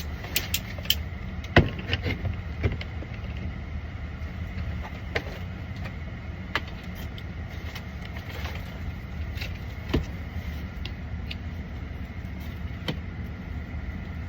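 Steady hum of a whole-house dehumidifier running, with scattered clicks and knocks of its plastic filter cover and filter being handled, thickest in the first three seconds and then every second or two.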